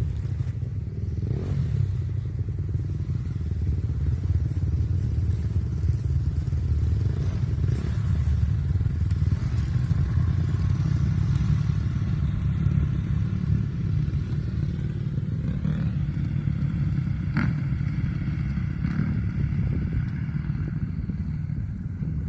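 Motocross motorcycle engines running, a heavy low rumble throughout, with a higher engine note rising and falling in the later part.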